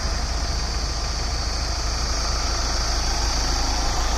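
Mahindra Scorpio's mHawk four-cylinder turbodiesel idling steadily.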